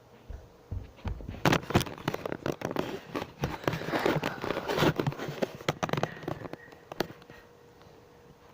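Close rustling and crackling with many sharp clicks and knocks, for about six seconds: handling noise of something being moved right at the microphone.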